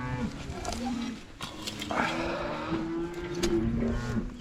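Cattle mooing: several long, low calls that overlap one another, with a few scattered clicks and knocks.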